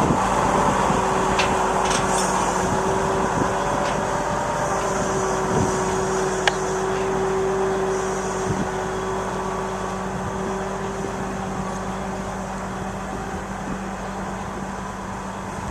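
Case IH 9270 four-wheel-drive tractor's diesel engine running steadily under load while pulling an air drill and air cart, with a steady tone over the engine. The sound fades slowly.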